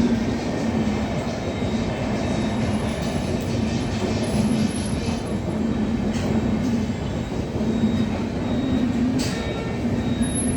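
Express passenger train rolling past at a level crossing, a steady rumble of wheels on the rails with a few sharp clicks along the way.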